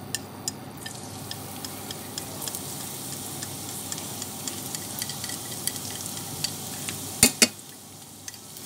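Minced garlic and chili sizzling and crackling in hot oil in a frying pan as they are fried until fragrant. Two sharp knocks about seven seconds in.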